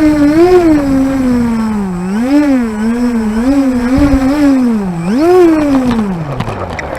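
Model plane's motor and propeller heard from an onboard camera, its pitch rising and falling repeatedly with throttle changes, then winding steadily down over the last second and a half as the throttle is closed. Wind buffets the microphone underneath.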